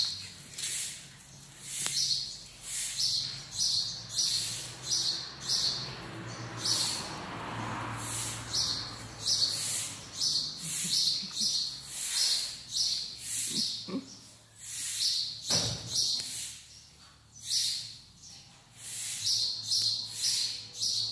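Small birds chirping over and over in quick high runs of short chirps.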